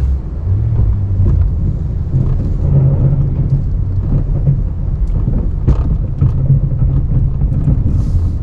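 Ram 1500 Classic pickup's engine running under load while plowing snow, its revs rising and falling a few times, with occasional knocks and clicks.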